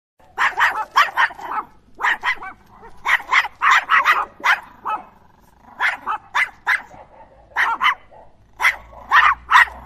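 A dog barking in quick runs of three to six barks, with short pauses between the runs.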